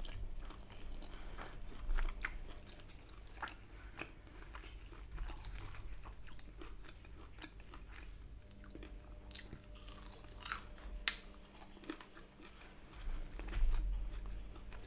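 A person chewing crunchy Chinese takeaway food, with irregular crisp crunches and wet mouth clicks.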